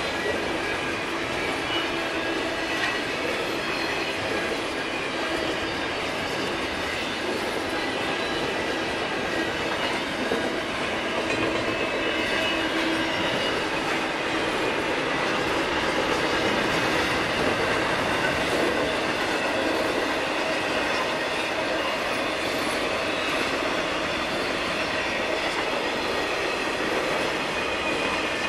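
Freight container train rolling past: a steady rumble and clatter of steel wheels on the rails, with thin, steady wheel-squeal tones running through it.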